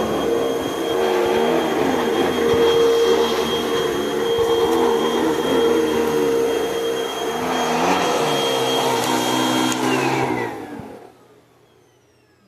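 Hoover WindTunnel upright vacuum cleaner running steadily with a high whine. About ten seconds in it is switched off, and the motor's whine falls in pitch as it spins down to near silence.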